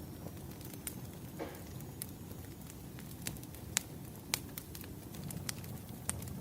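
Wood fire crackling: a steady low rumble of burning logs with scattered sharp pops, two louder ones a little past the middle.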